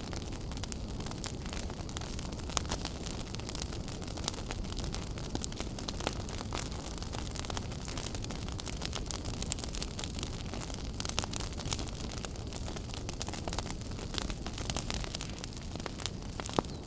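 Wood fire burning in a fireplace: a steady low roar and hiss with irregular sharp crackles and pops throughout, a few louder snaps among them.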